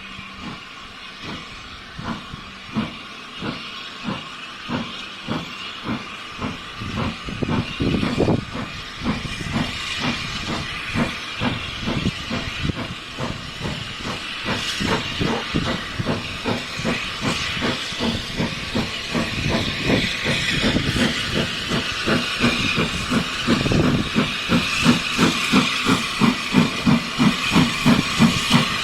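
Steam locomotive pulling away, its exhaust beats starting slow and quickening steadily while growing louder, over a steady hiss of steam.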